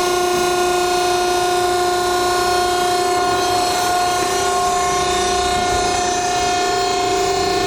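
Power unit of an SSLJ100-600H commercial hydraulic firewood splitter running idle, a steady even hum-whine that does not change.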